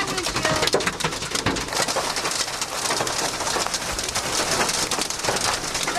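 Large hailstones pounding a car's roof and body, a dense, unbroken clatter of hard impacts heard from inside the car.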